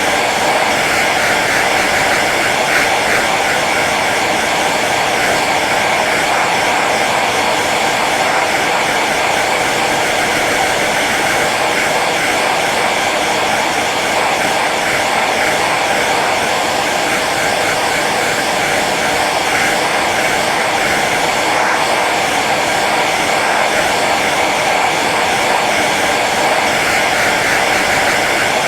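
Hair dryer running steadily on its low setting: an even whoosh of blown air over the motor's hum.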